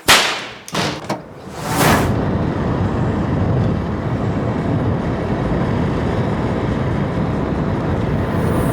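Car on the move: steady road and engine noise. There are a few sharp knocks in the first two seconds.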